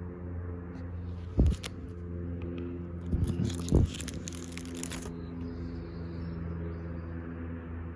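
A steady low mechanical hum runs throughout. A loud thump comes about one and a half seconds in, and a few more thumps with crackly rustling come a couple of seconds later.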